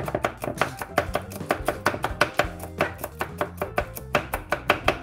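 Kitchen knife chopping crushed garlic on a wooden cutting board: quick, even knocks of the blade on the board, several a second.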